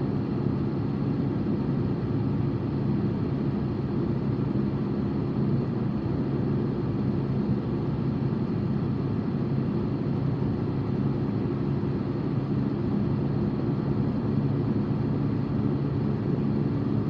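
A car being driven at a steady speed, heard from inside the cabin: a steady low engine hum over road and tyre noise.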